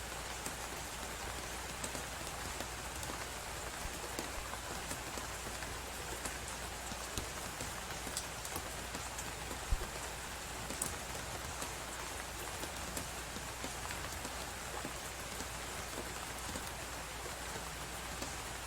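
Wood fire crackling, with scattered pops and one louder pop about ten seconds in, over the steady hiss and low rumble of blizzard wind.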